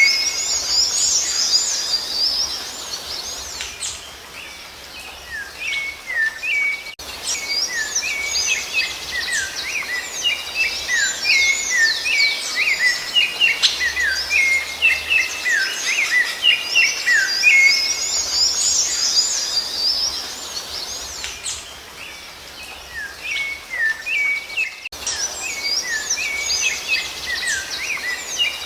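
Rufous-bellied thrush (sabiá-laranjeira) singing: rapid runs of clear whistled notes and high squeaky phrases, quieter for a few seconds after about four seconds and again after about twenty-one seconds.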